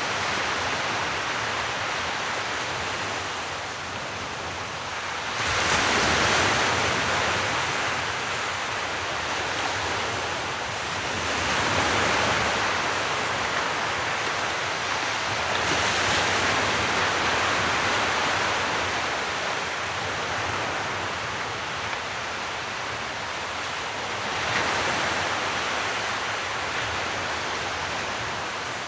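Sea waves breaking and washing in over a steady hiss of surf. Four surges swell up and fade away, a few seconds apart.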